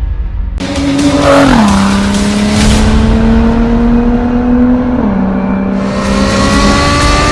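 Car engine with an aftermarket performance exhaust accelerating hard, its pitch climbing steadily and dropping at gear changes about 1.5 s and 5 s in.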